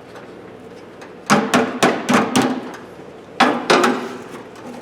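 Sheet-metal toolbox drawer knocking and clanking as it is handled: about five quick metallic knocks, then two more about a second later, each with a short ring.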